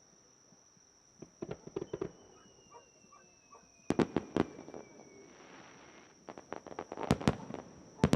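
Fireworks display: aerial shells bursting in clusters of sharp bangs and cracks, a faint whistle sliding down in pitch, then a brief crackle. The bangs grow denser and louder toward the end.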